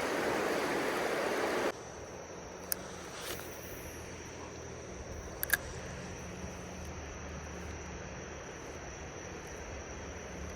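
Rushing river water that cuts off abruptly about two seconds in, leaving a faint low steady hum and a thin, steady high-pitched whine, with a couple of small clicks.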